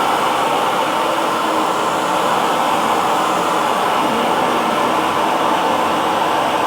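Hair dryer running steadily, an even blowing whir with no change in speed.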